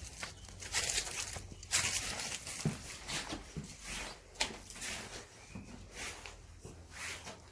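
Irregular rustling and crunching noises, a few short bursts every second or so, with a sharp click about four and a half seconds in.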